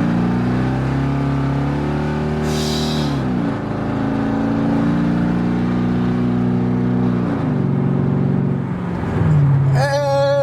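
Mercedes E55 AMG's 5.4-litre V8 pulling under acceleration. Its pitch climbs steadily, then drops sharply as the automatic gearbox shifts up, twice, with another drop near the end. It is running smoothly after new spark plugs; the check engine light stays off and the shifts are clean.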